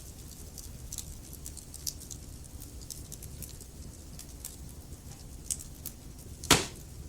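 Log fire in a fireplace crackling, with frequent small snaps over a low steady rumble of the flames, and one loud pop near the end.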